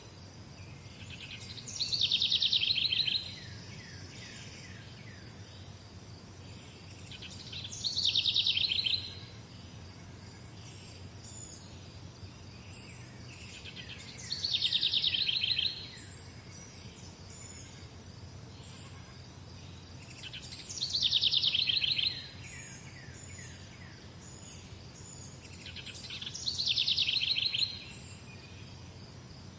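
A songbird repeating the same song five times, about every six seconds. Each phrase is about two seconds long: a falling sweep that runs into a fast, even trill. A steady low background hum sits underneath.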